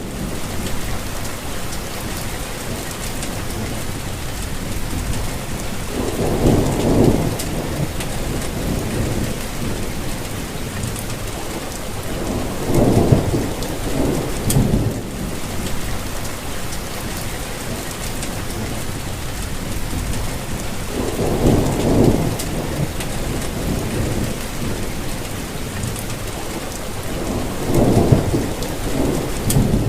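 Steady rainfall, with a low rumble of thunder swelling and fading four times, every seven seconds or so.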